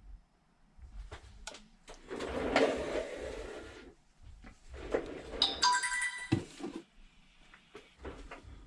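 Samsung Galaxy S8 playing a short electronic chime as it powers up for a screen test, a run of clear tones lasting about a second, about five and a half seconds in. Before it, a rustling, scraping handling noise from about two to four seconds in.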